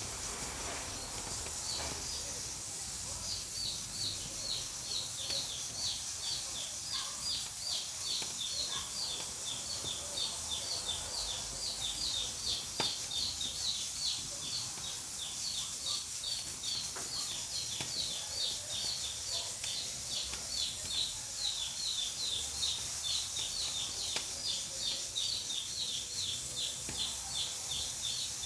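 Pressure cooker on a wood-burning stove hissing steadily as steam escapes. Over the hiss runs a rapid series of short, high, falling chirps, about three a second, starting a few seconds in.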